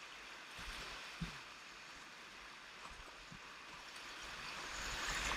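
Whitewater rapids rushing, growing louder near the end, with a few short low knocks.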